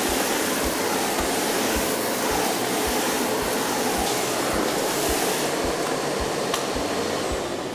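Miele Blizzard CX1 bagless vacuum cleaner running steadily, its universal floor head set for hard flooring; the motor sound fades away near the end.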